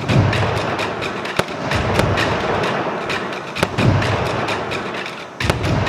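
Aerial firework shells bursting: a string of deep booms, several seconds apart, among many sharp cracks and crackle.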